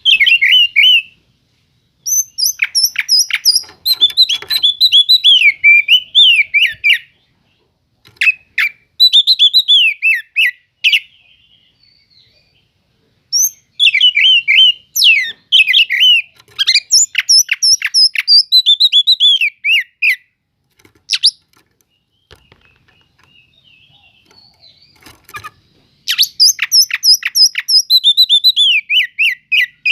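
Oriental magpie-robin (kacer) singing loudly in bursts a few seconds long, each a fast run of sharp chirps and sliding whistled notes, with short pauses between them.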